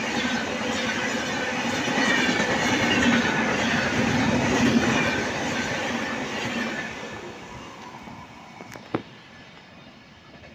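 Express train running through at speed, its wheels clattering over the rail joints; the noise fades away over the last few seconds as the train moves off. A sharp click near the end.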